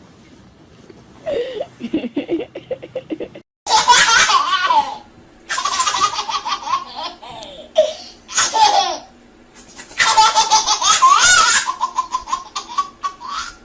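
A baby laughing in several long bursts of rapid, high-pitched laughs separated by short pauses. A brief dead-silent gap cuts the sound a little over three seconds in.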